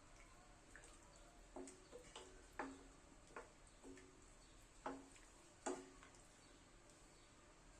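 About seven light, irregular clinks of a utensil against kitchenware, each with a short ring, the loudest in the second half.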